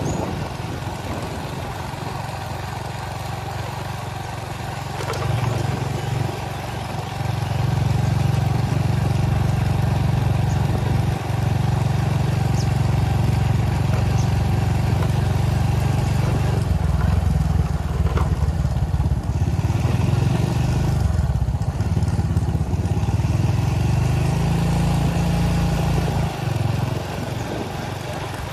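A motor vehicle running steadily: a continuous low rumble that swells louder from about eight seconds in.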